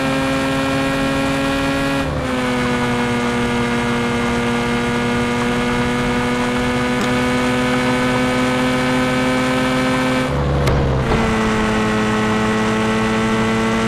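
Motorcycle engine running at steady revs. Its pitch drops a step about two seconds in and again about ten seconds in.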